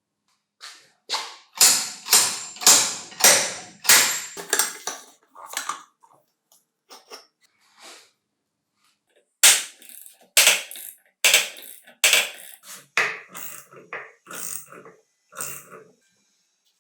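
A series of short, sharp knocks or scrapes from hand work: about two a second at first, thinning out, then after a pause of a second or so a second run at about one a second.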